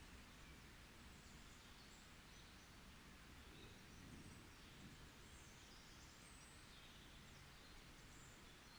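Faint forest ambience, close to silence: a soft steady hiss with scattered faint, high bird chirps and short twitters.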